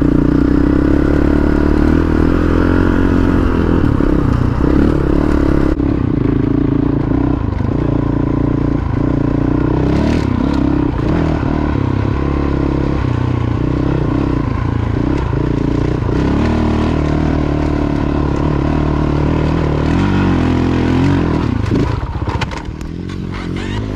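Single-cylinder engine of a Honda CRF450L dual-sport motorcycle running under load on a rocky dirt trail, heard from the bike itself. Stones clatter and scrape under the tyres. Near the end the engine eases off and the sound briefly drops.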